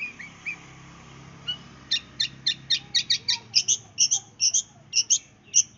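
Long-tailed shrike (cendet) singing in the rapid 'sembur' style: a few short rising chirps, then from about two seconds in a fast run of sharp, high notes, about four a second.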